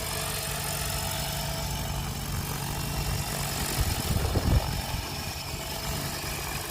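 Electric 730-size RC helicopter hovering with its rotor at a low 1400 rpm head speed, giving a steady low hum. A brief low rumble rises about four seconds in.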